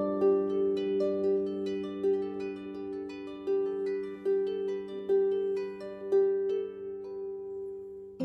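Solo harp playing a slow melody: single plucked notes about once a second over sustained low notes, the last notes ringing out and fading near the end.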